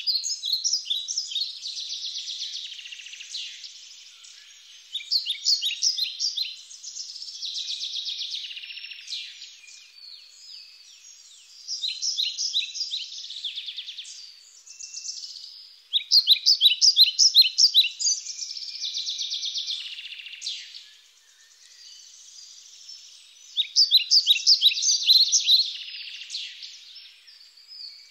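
Small birds singing: bursts of quick, high chirping notes that come again every few seconds.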